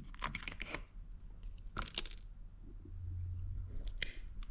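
A sauce cup lid being worked open, with crinkling and tearing in a few short bursts: a cluster in the first second, one near the middle and one near the end.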